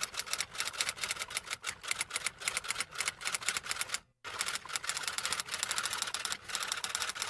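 Rapid typing on keys, a fast irregular clatter of many strokes a second, breaking off briefly about four seconds in and then resuming.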